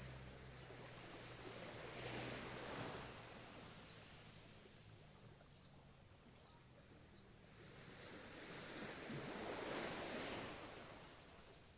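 Ocean waves breaking and washing in: two swells of surf, one a couple of seconds in and another near the end, each building and falling away, with a lull between.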